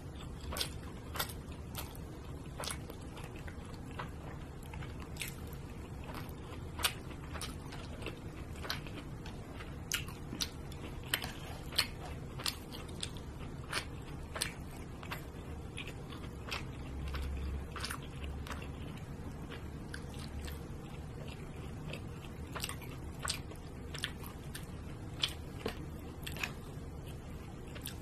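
Close-up eating sounds of a person chewing thin slices of grilled wagyu beef, with many irregular sharp wet mouth clicks.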